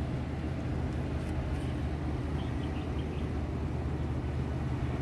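A steady low mechanical hum and rumble with an even level, with a few faint high chirps near the middle.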